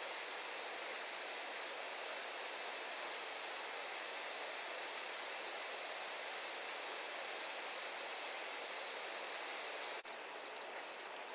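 A steady, even rushing hiss with no separate crackles or knocks, broken once by a short dip about ten seconds in.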